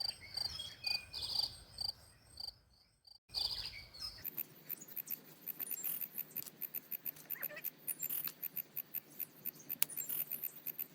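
Insects chirping in a steady, evenly pulsing rhythm. The sound cuts out briefly about three seconds in, then comes back as a faster, denser ticking.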